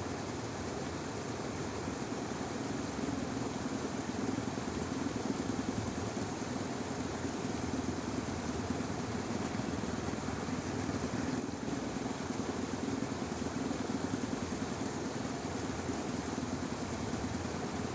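Dense, unbroken chorus of frogs in a flooded rice paddy, holding steady throughout.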